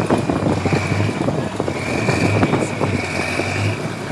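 Truck engine running, its low throb swelling and easing, with a high whine that comes and goes.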